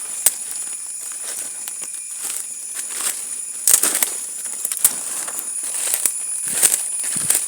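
Irregular crackling footsteps, about one or two a second, over a steady high-pitched insect drone.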